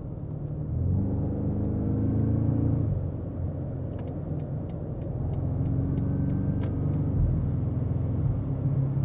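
BMW M5 Touring's twin-turbo V8 through a DCE cat-back exhaust with OPF delete, heard from inside the cabin with the exhaust valves open, accelerating onto a highway with a low rumble. The engine note swells about a second in, eases, and swells again about halfway through.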